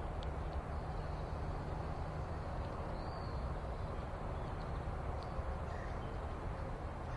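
Steady outdoor background hiss with a few faint, short bird chirps, one a little longer about three seconds in.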